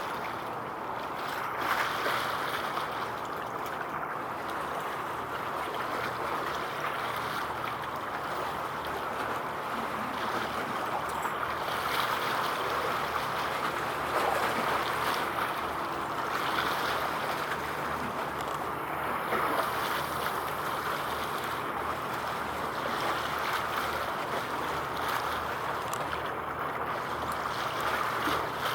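Steady wash of wind and waves at the water's edge, with a faint low hum underneath.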